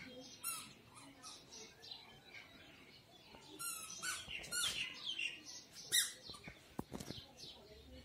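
Small birds chirping and squawking in quick, irregular calls, many short high notes sliding downward, the sharpest one about six seconds in.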